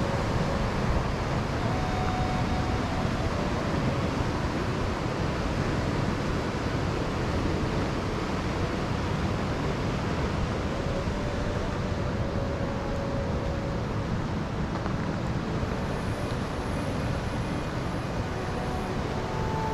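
Steady rushing noise of the Steinsdalsfossen waterfall, a dense, even wash of falling water with no breaks.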